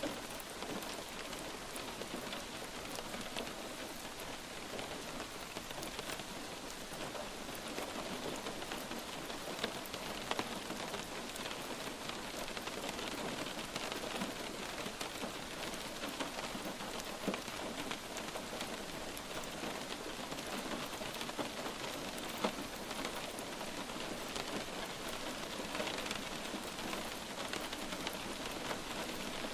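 Light rain falling steadily, with many individual drops ticking close by and a few louder single drop hits.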